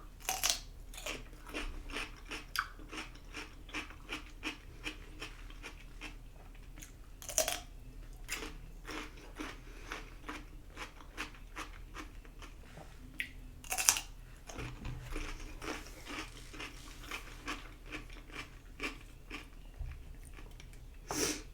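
Close-miked chewing: a steady run of small wet crunches and mouth clicks, with a few louder crunchy bites about seven and fourteen seconds in and near the end.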